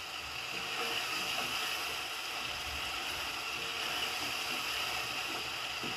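Curry paste of onion, ginger, garlic and ground spices sizzling steadily in hot oil as it is stirred in a non-stick pot: the masala being fried down until the oil separates.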